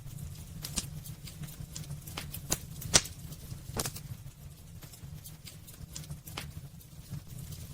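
Wood fire burning in a fireplace: irregular sharp crackles and pops from the burning logs over a low steady rumble of the flames, the loudest pop about three seconds in.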